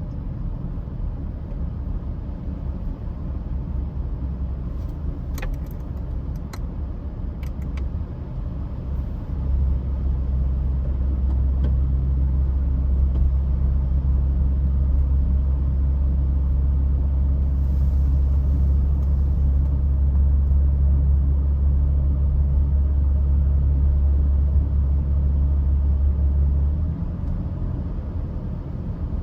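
Steady low rumble of a car driving, heard from inside the cabin. It grows louder about a third of the way in, holds, and eases near the end, with a few faint clicks early on.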